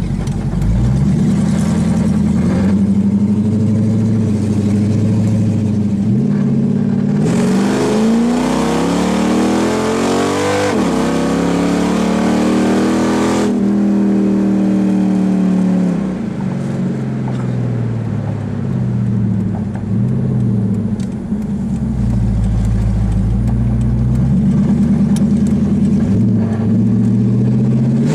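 A 5.7 L Hemi V8 with straight-piped exhaust (SRT headers into catless mid-pipes dumped under the car, no mufflers), heard from inside the cabin with the windows down while driving. Its loud exhaust note rises hard under acceleration about seven seconds in, drops and climbs again at an upshift, falls away when the throttle is lifted, then rises and falls gently while cruising.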